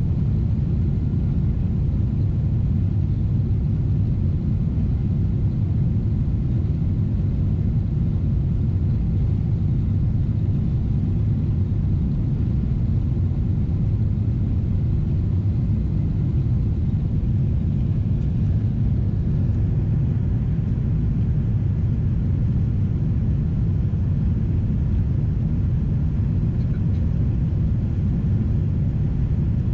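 Steady low rumble inside the economy cabin of a Boeing 777-300ER in flight: its GE90 engines and the airflow over the fuselage, unchanging throughout.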